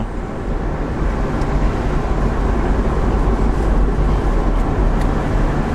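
Steady road noise of a car being driven along a highway, a low engine and tyre rumble heard from inside the car.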